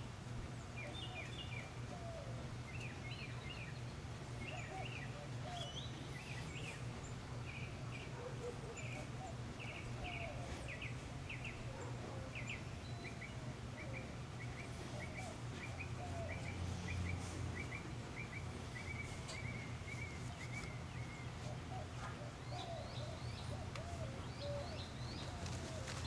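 Birds chirping over a steady low background hum, with a long run of quick, evenly repeated notes in the middle.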